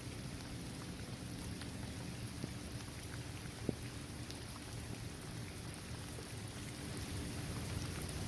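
Steady rain falling on a basketball court, trees and grass, with scattered individual drops ticking and one sharper drop about three and a half seconds in.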